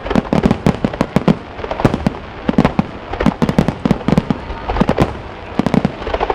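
Aerial fireworks going off in rapid succession: dense runs of sharp bangs and pops, several a second, with short lulls between volleys.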